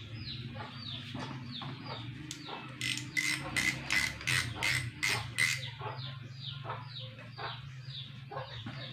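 Birds calling: a steady run of short falling chirps, about three a second, with a louder run of sharper calls in the middle, over a low steady hum.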